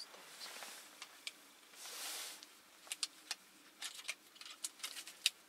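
Handling noise: a short soft rustle about two seconds in, then a scatter of small, sharp clicks and knocks as objects are handled and hung up.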